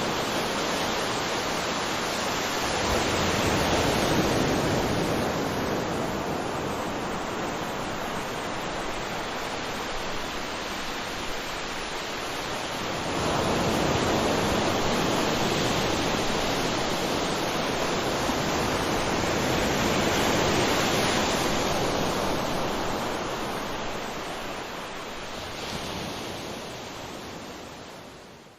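Waterfall's rushing water, a steady roar that swells and eases a few times, then fades out near the end.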